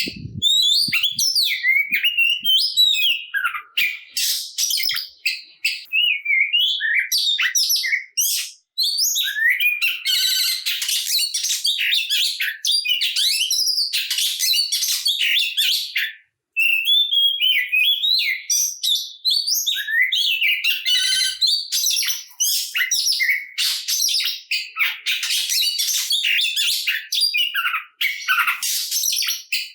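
Oriental magpie-robin singing a continuous, varied song of quick gliding whistles and harsh chattering notes, with two short pauses about 9 and 16 seconds in. This is the combative, full-repertoire song of a bird in fighting mood.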